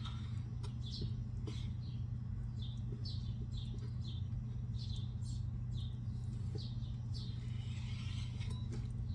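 A bird chirping over and over, short falling chirps about twice a second, over a steady low electrical hum.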